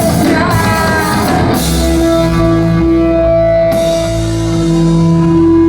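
A rock band playing live. About two seconds in, the busy opening gives way to a long held note over changing bass notes.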